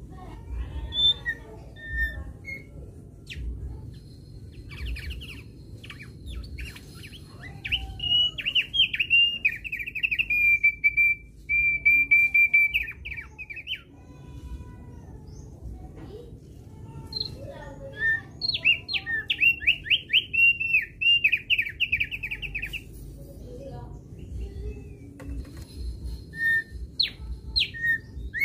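Thick-billed heleia (opior paruh tebal) singing: two long runs of rapid, repeated high chirping notes, with a few short call notes before, between and after them.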